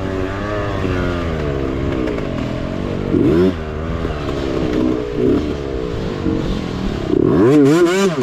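Mini bike engine revving up and down repeatedly as it is ridden over the trail, with a louder, sharper rev rise and fall near the end.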